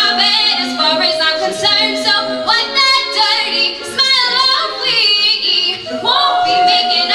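An a cappella vocal group singing without instruments: a female voice over held, sustained harmony notes.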